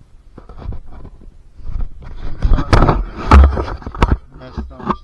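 Irregular knocks, clicks and scrapes, like things being handled; the loudest is a heavy thump about three and a half seconds in.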